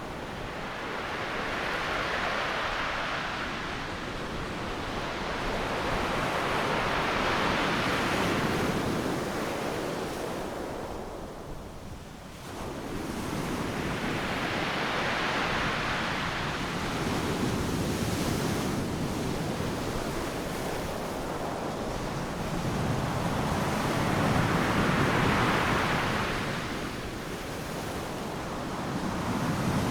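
Ocean surf breaking on a sandy beach: a continuous rushing wash that swells and fades as each wave breaks and runs up, about every five to seven seconds, with a brief lull about twelve seconds in.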